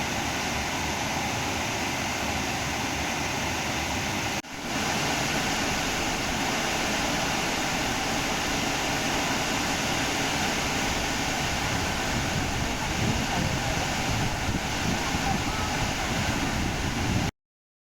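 Waterfall: steady rushing of water over the rocks, broken by a brief dip about four seconds in and cutting off suddenly near the end.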